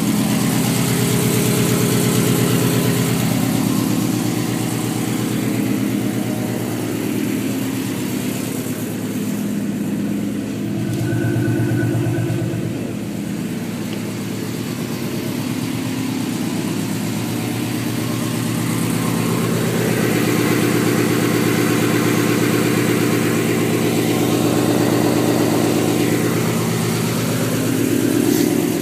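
1999 Mustang GT's 4.6-litre V8, fitted with a homemade single-turbo kit and a Flowmaster cat-back exhaust, idling on one of its first runs. The idle is uneven, dropping in level about halfway through and rising again later.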